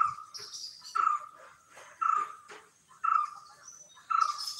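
A bird repeating one short, loud call note about once a second, with fainter high chirps from other small birds.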